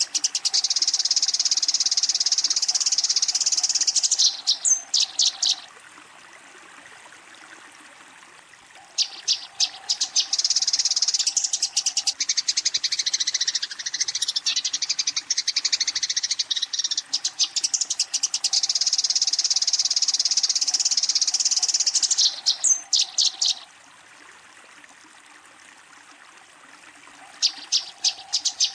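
Eurasian tree sparrow giving its fighting call: rapid, high, buzzy chattering in bouts of several seconds, each ending in a few separate chirps, then pausing for a few seconds before the next bout, three bouts in all. It is the aggressive call used to challenge a rival.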